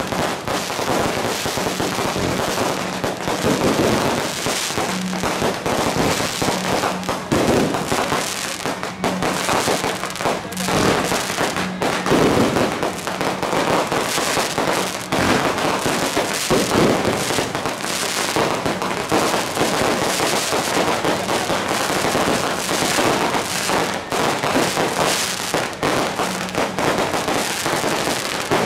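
Firecrackers and aerial fireworks going off in a continuous dense crackle of overlapping sharp bangs.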